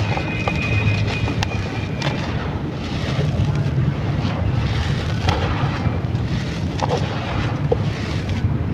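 Dry, sandy clay crumbling and crunching, with scattered small clicks and crackles and a few soft rustling swells, over a steady low rumble.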